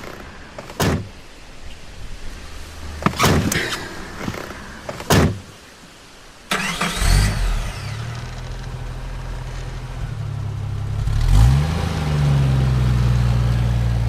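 Three car doors shut one after another, then a car engine starts about six and a half seconds in and runs steadily. Near the end it revs up and settles into a louder steady run.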